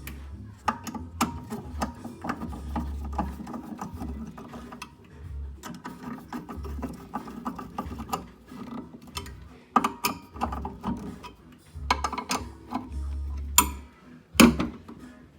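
Irregular clicks, rattles and knocks of metal parts and hand tools being handled while working on an Ideal Logic boiler's fan, with two sharper knocks near the end.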